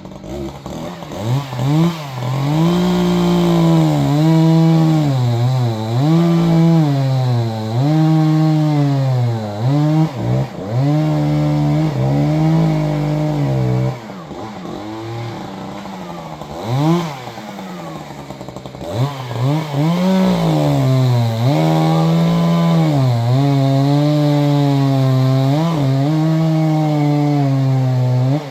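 Gasoline chainsaw cutting wood, revving up to full throttle and dropping back again and again between cuts. It falls to a lower, quieter run for a few seconds around the middle, then runs at full throttle again.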